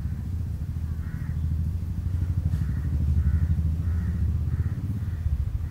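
A series of short, harsh cawing bird calls, one every half second or so, over a loud low rumble that swells around the middle and eases off again.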